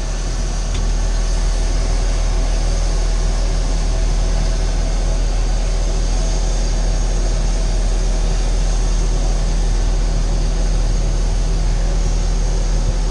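Steady, loud engine noise: a constant low hum with a fixed high whine above it, running evenly without change.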